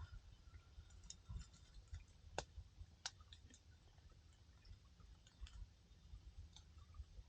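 Wood campfire crackling: faint, irregular pops and snaps of burning firewood, the sharpest about two and a half and three seconds in.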